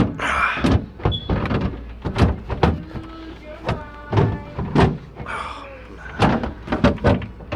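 The bottom section of a refrigerator being pushed and banged repeatedly as it fails to shut, giving a quick series of knocks and slams with some scraping in between.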